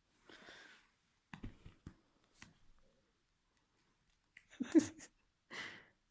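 Cat playing with a piece of string: scattered soft rustles and small clicks, with a louder, brief scuffle a little before the five-second mark.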